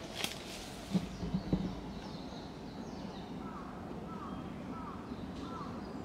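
Woodland birds calling: from about halfway in, a short bending note repeats roughly twice a second, with fainter high chirps above it. A few soft knocks come about a second in.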